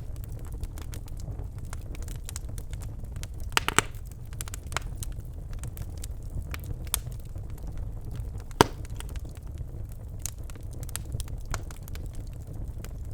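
Birch logs burning in a fireplace, crackling with scattered sharp pops over a low steady rumble of the flames; a quick cluster of loud pops comes a little before 4 seconds in, and a single loud snap about 8.5 seconds in.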